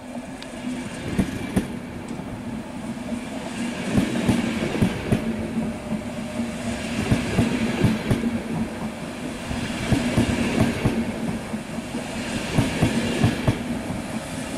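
ÖBB double-deck push-pull coaches pulling out and rolling past, their wheels clicking unevenly over rail joints and points above a steady low hum. It grows louder near the end.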